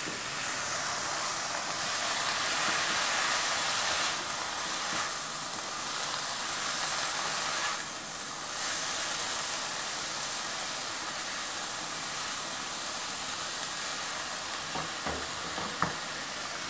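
Julienned vegetables sizzling in a hot non-stick wok over a high gas flame, just splashed with chicken stock, as a spatula stirs and tosses them. The sizzle eases a little about eight seconds in, and a few light clicks of the spatula against the pan come near the end.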